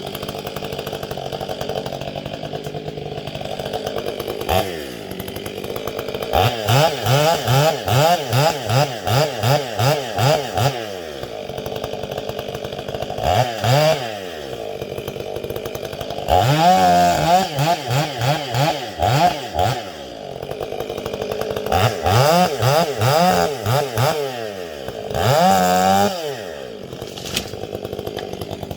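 Stihl MS 500i two-stroke chainsaw idling, with several spells of revving in which the engine speed rises and falls about twice a second, then drops back to idle.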